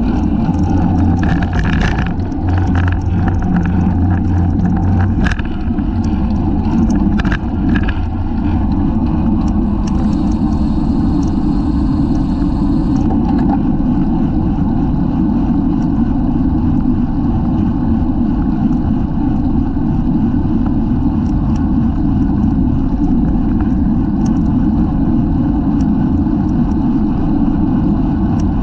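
Wind buffeting the microphone of a bike-mounted camera while riding at race speed: a steady, loud low rumble. A few sharp clicks come in the first eight seconds.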